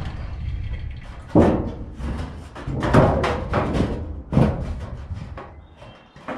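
A sheet of old metal roofing banging and rattling as it is handled and bent into place against a wooden beam, with four loud bangs and a rattling clatter after each.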